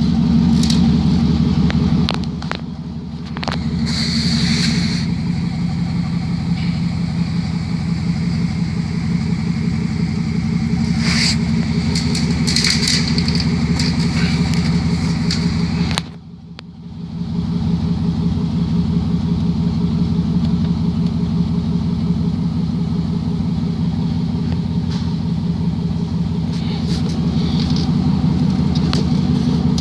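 2009 Chevrolet Avalanche's 5.3-litre V8 idling with a steady low drone, running loud because the exhaust is cut off after the catalytic converters. The level dips briefly about two seconds in and again past halfway.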